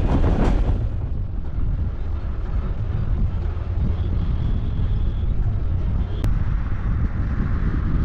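Vehicle driving, with a steady low rumble of road and engine noise. A single click sounds about six seconds in.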